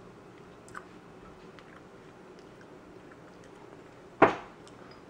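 A person chewing a mouthful of soft cheesecake close to the microphone, with a few faint mouth clicks. A single sharp thump about four seconds in is the loudest sound.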